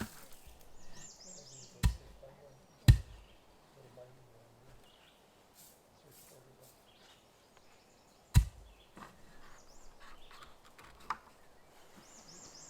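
Sharp knocks: two about a second apart, a third several seconds later, and a fainter one near the end. A bird sings faintly now and then in the background.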